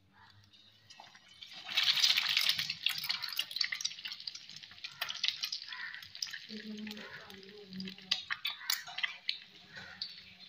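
An egg-coated bread slice dropped into hot oil in a frying pan: a sudden loud sizzle and crackle starts about two seconds in, then settles into a steady crackling fry.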